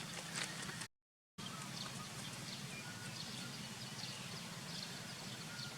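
Outdoor ambience with many short bird chirps over a steady low hum. The sound cuts out completely for about half a second about a second in.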